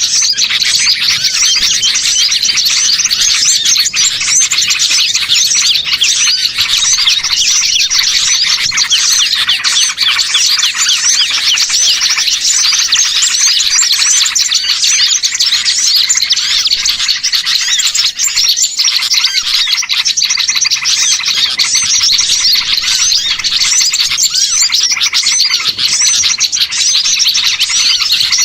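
A dense chorus of many small songbirds chirping and twittering over one another without a break, from a mixed small-bird lure recording made to draw in wild birds.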